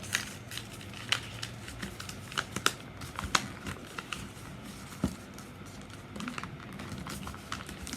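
A sheet of paper being folded and creased by hand: scattered crinkles and small sharp clicks.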